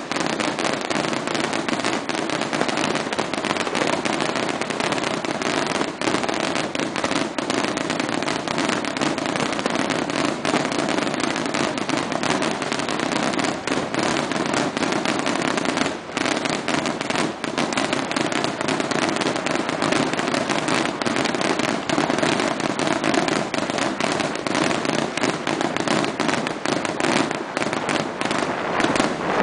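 Aerial fireworks display: a rapid, unbroken string of bangs and crackles.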